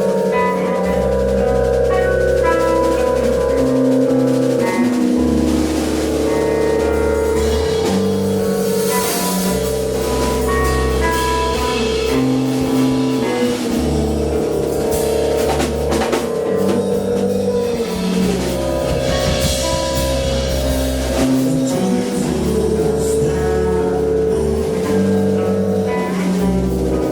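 Live band music with drum kit, guitar and a bass line that changes note every second or two.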